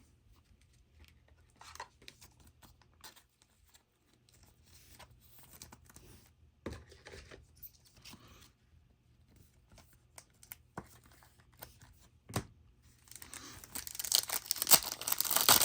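Soft handling of trading cards with scattered faint clicks and rustles, then near the end a loud crinkling and tearing as a card pack wrapper is ripped open.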